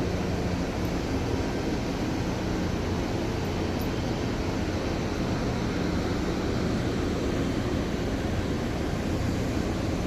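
Steady drone of a power plant's running generators, a constant rumbling noise with a low hum underneath.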